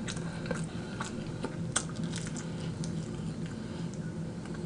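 Chewing and small wet mouth clicks from eating fried chicken wings close to the microphone, scattered irregularly, over a faint steady hum.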